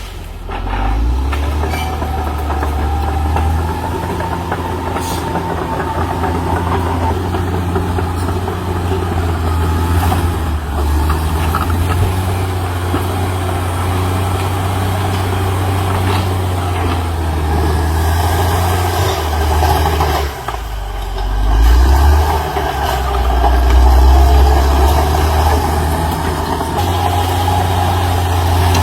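CAT D6R XL bulldozer's diesel engine running steadily, dropping off briefly about twenty seconds in and then picking back up louder.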